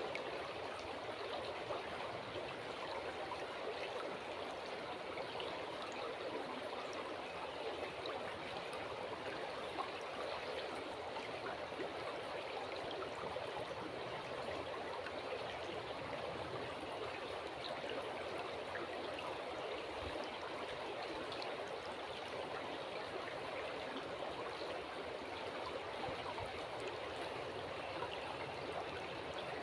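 River water running steadily, an even, unbroken wash of flowing-water sound.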